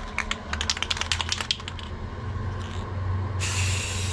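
Aerosol can of clear enamel being shaken, its mixing ball rattling in quick clicks for the first second and a half. About three and a half seconds in, the can sprays with a steady hiss.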